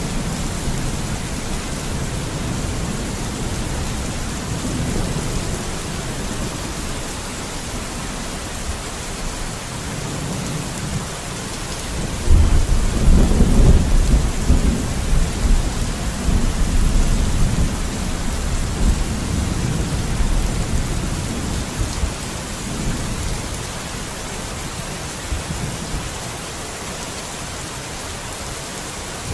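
Steady rain with rolling thunder: a deep rumble swells about twelve seconds in, peaks, and fades slowly over several seconds.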